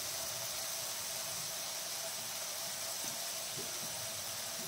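Diced chicken breast frying in oil in a wok: a steady, soft sizzling hiss with a few faint pops.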